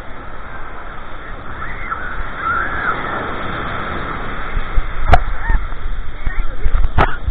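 Birds calling a few times in short, curving calls over a steady noisy background. Two sharp knocks come near the end.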